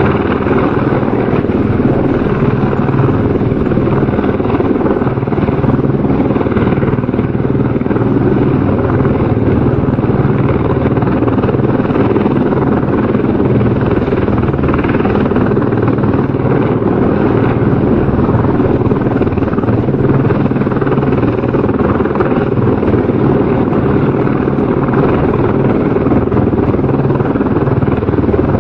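Helicopter rotor and engine noise, steady and continuous, with a low rotor throb under a dense whooshing hiss.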